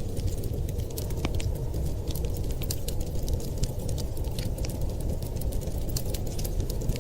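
Wood fire crackling, with frequent small sharp pops at irregular intervals over a low, steady rumble.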